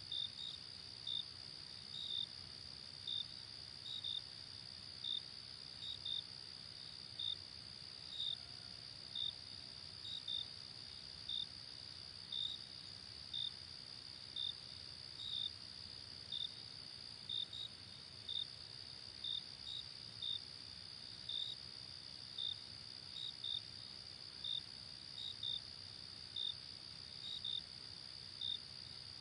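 Night insect chorus: a steady high-pitched trill with crickets chirping over it, roughly once a second, irregularly.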